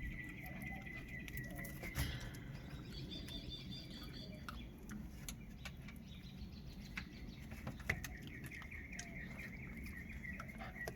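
A dog chewing and crunching a frozen raw tilapia, with scattered sharp clicks and louder crunches about two seconds in and again near eight seconds. Birds chirp in the background, including a fast trill at the start and again from about eight seconds.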